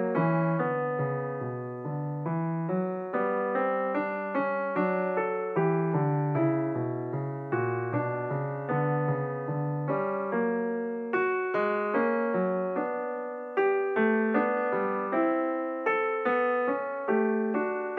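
Background piano music: a slow melody of single struck notes and chords, about two a second, each ringing and dying away.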